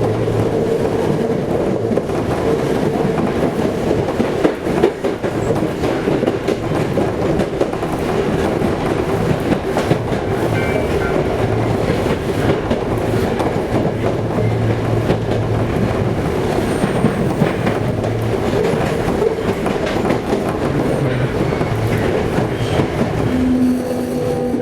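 Toei 5300 series electric train running at speed, heard from inside the car: a steady rumble with wheels clattering over the rails and a faint steady hum. Near the end, a whine that shifts in pitch sets in.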